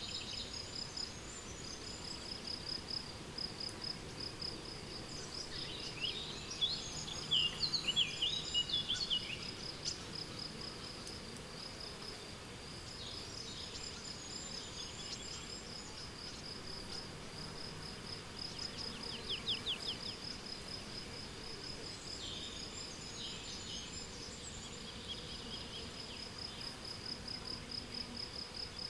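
Meadow ambience: a cricket chirping in a steady, rapid pulsing trill throughout, with songbirds singing short phrases over it. The birds are loudest about six to nine seconds in, with a quick run of notes near the twentieth second.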